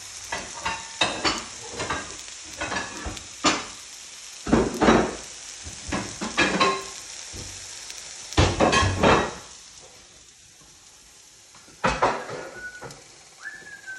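Sliced mushrooms sizzling in a hot skillet, with repeated scraping and clattering strokes as they are stirred in the pan, loudest about four and a half and eight and a half seconds in. The sizzle drops away about ten seconds in, and a sharp click follows near the end.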